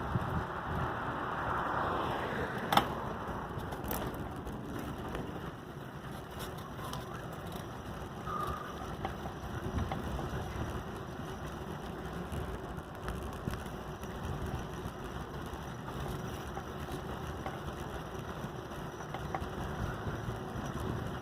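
Steady road and wind noise from an adult tricycle being ridden, with one sharp knock about three seconds in.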